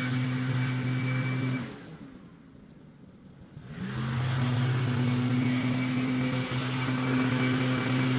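A small engine running at a steady speed, with airy hiss above it. It drops out about a second and a half in, then revs back up about two seconds later and runs steady again.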